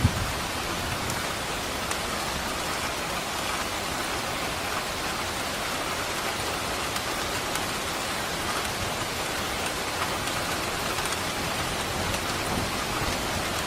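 Steady rain falling on surfaces, with scattered faint drop ticks and one sharper tap right at the start.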